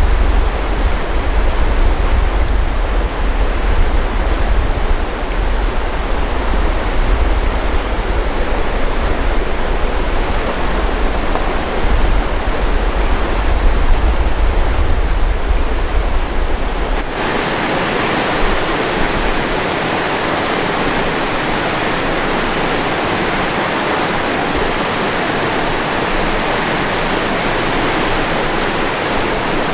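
Rushing water of a mountain stream, a loud, steady noise. About seventeen seconds in it cuts abruptly from a deep rumble to a brighter, even hiss.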